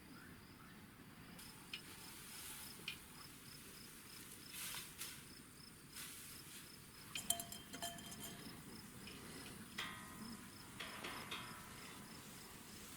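A cricket chirping steadily in a regular high-pitched pulse, with a few scattered clinks and knocks, the sharpest about seven seconds in.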